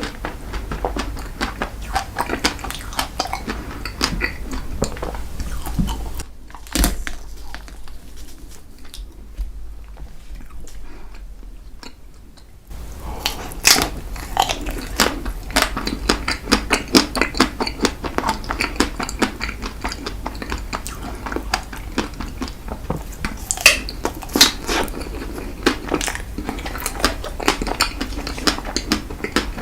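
Close-miked eating sounds: a spoon clinking and scraping against a dish of ice cream dessert cake, with chewing and biting mouth sounds. The sounds pause to a quieter stretch from about six seconds in to just past twelve, then resume.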